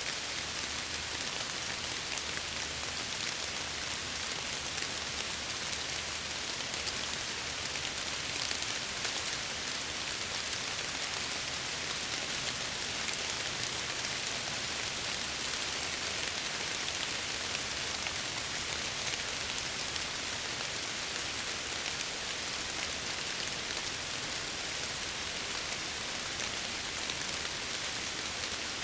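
Steady rain falling against window glass: an even hiss flecked with many small drop ticks, with no change in strength.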